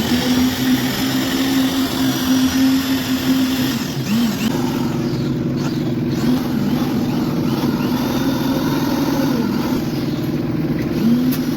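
Engine of a concrete-work machine running steadily with a constant hum, its pitch dipping briefly a few times.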